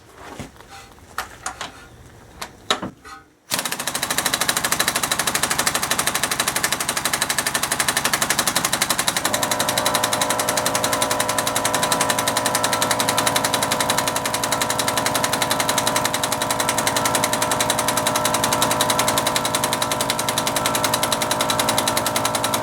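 Pneumatic impact wrench hammering continuously on a Honda crank bolt for many seconds without breaking it loose: the small compressor does not give it enough air. A few small clicks come before it starts, and a steady hum joins the hammering about a third of the way through.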